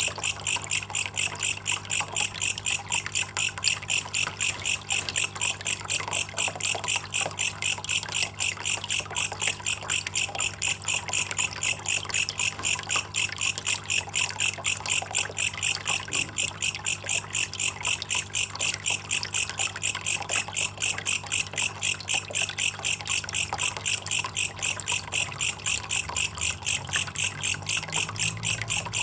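Belalang kecek katydid calling in a fast, even train of high chirps that never lets up, over a steady trickle of running water.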